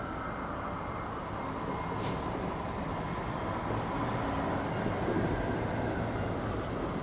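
Fire truck engine and road noise as it drives past, steady throughout, with a short hiss about two seconds in.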